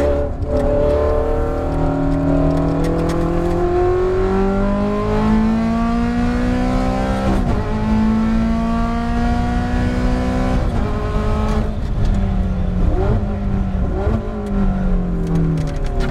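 Ferrari F430 GT race car's V8 engine under hard acceleration, its pitch climbing steadily for about seven seconds before dropping sharply on an upshift. It then holds a steady pitch and, in the last few seconds, falls in steps with short throttle blips as it downshifts for braking.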